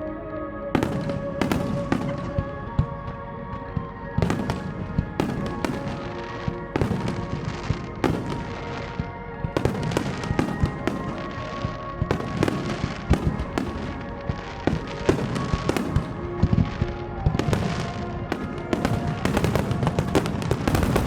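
Fireworks shells bursting in a dense, continuous barrage: many sharp bangs at irregular intervals, overlapping and coming thickest near the end, with music playing under them.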